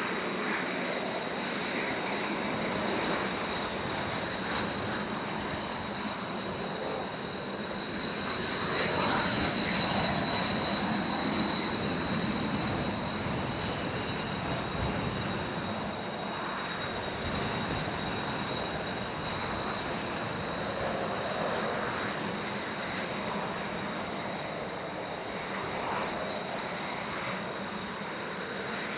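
Kawasaki T-4 jet trainers' turbofan engines running on the ground with a high whine, over heavy wind noise on the microphone. The whine drops in pitch a few seconds in and climbs back up near the end.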